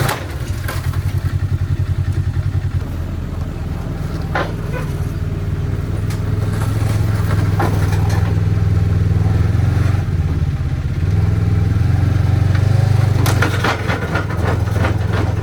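A vehicle engine running steadily with a rapid low pulsing, over a few short scrapes and clatters as the broken side-by-side is dragged up onto the trailer on a plastic sled.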